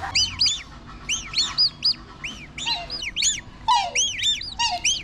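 Many small birds chirping: quick, high, arched peeps overlapping continuously, with a few lower falling calls among them.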